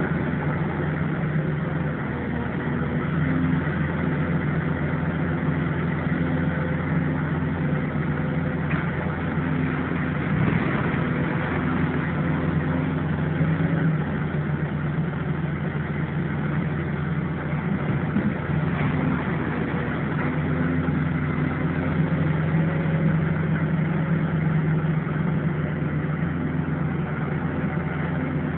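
Engine of heavy demolition machinery running steadily at a constant speed, with a steady low hum and a noisy rumble over it.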